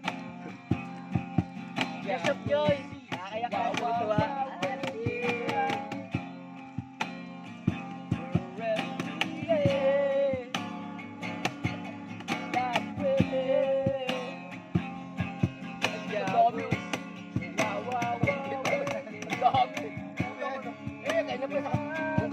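Singing over a strummed acoustic guitar.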